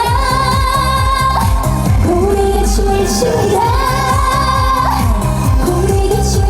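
A female singer sings a Korean trot song over a backing track with a steady beat, holding long notes with vibrato.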